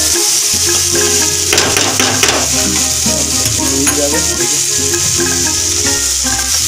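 Onion, garlic and tomato pieces sizzling as they fry in a pan, with a spatula stirring and scraping through them a few times. Background music plays along.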